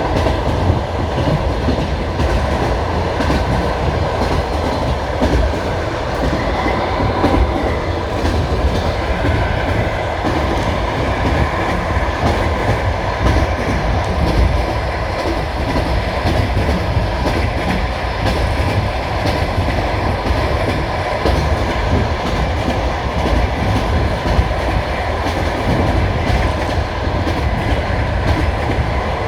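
Passenger train carriage rolling along the track, a steady rumble with the clatter of wheels over rail joints, heard from inside the coach.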